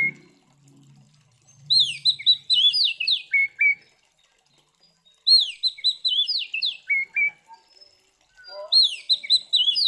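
Oriental magpie-robin (kacer) singing, repeating the same phrase three times, about every three and a half seconds: a quick run of down-slurred whistles ending in two lower notes.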